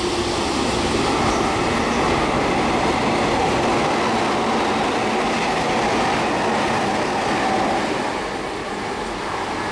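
Meitetsu limited express train running through the station at speed without stopping: steady wheel-on-rail noise that swells as it passes and eases slightly near the end.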